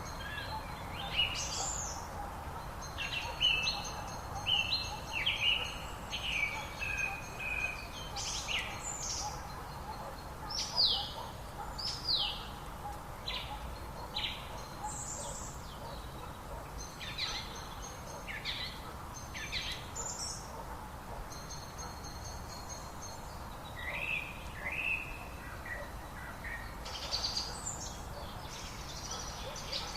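Several songbirds singing and calling: quick trills, chirps and falling whistles, overlapping one another, over a steady background hiss.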